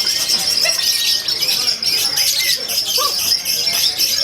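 Many songbirds singing at once: a dense, continuous high chorus of chirps and trills.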